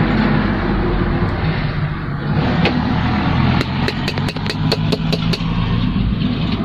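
A vehicle engine idling steadily, with a run of sharp clicks in the middle.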